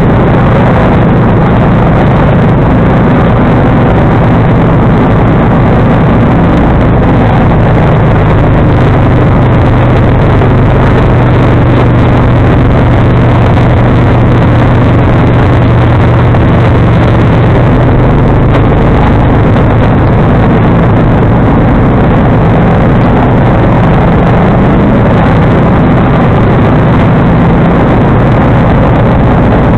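John Deere 445 garden tractor's Kawasaki liquid-cooled V-twin engine running steadily, driving a 47-inch front snowblower. The drone is loud and even throughout, with a low hum that strengthens slightly in the middle.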